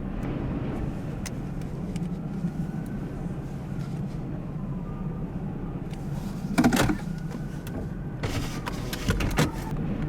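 A car running, heard as a steady low hum, with short harsh rushes of noise about seven seconds in and again between eight and nine and a half seconds.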